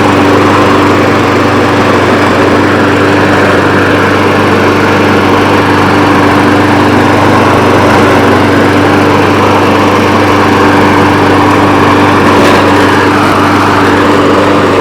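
Brute 22-inch mower's Briggs & Stratton 675 Series 190 cc single-cylinder engine running at a steady, unchanging speed.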